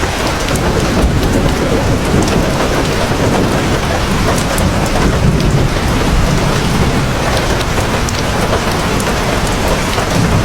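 Heavy rain pouring steadily, with a dense patter of drops over a constant deep low rumble.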